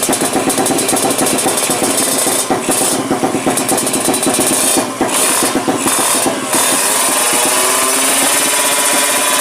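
Yamaha Jupiter four-stroke drag-bike engine, built to full compression, running choppy with short throttle blips. About seven seconds in it settles into a steadier, higher-revving note that climbs slowly and then holds.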